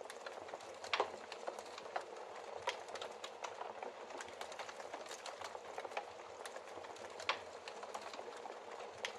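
Wood fire in a fireplace: logs burning with a steady hiss and irregular crackles and pops, the two sharpest pops about a second in and near the end.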